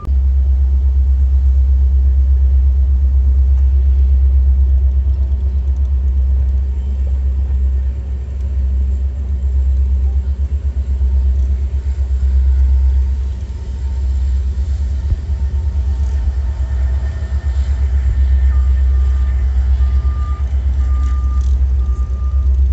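Steady low rumble of a freight train of tank cars rolling past. A repeating electronic beep starts up in the last few seconds.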